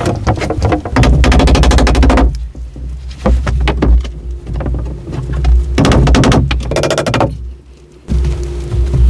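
Loud bursts of rapid, rattling knocks, many per second, separated by short lulls, with a brief near-quiet gap near the end.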